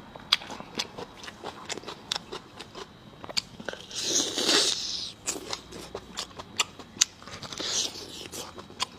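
Close-miked eating sounds: chewing with frequent wet mouth clicks and smacks. There is a longer, louder noisy stretch about four seconds in and a shorter one near the end.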